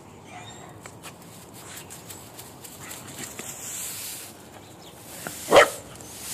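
A dog gives a single short bark about five and a half seconds in, over faint background hiss and a few light clicks.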